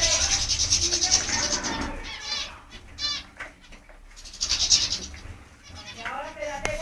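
Small cage birds, canaries and finches in an aviary, singing in bursts of fast, high-pitched trills, with a run of quick repeated notes about three seconds in.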